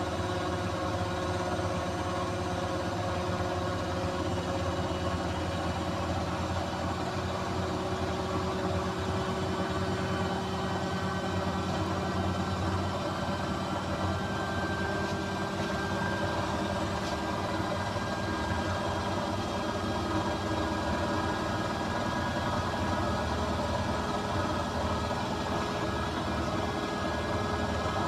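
Beko WMY81283LMB2 washing machine in its final spin with an unbalanced load: motor and drum running with a steady hum and whine, some of its tones rising slowly as the spin speeds up.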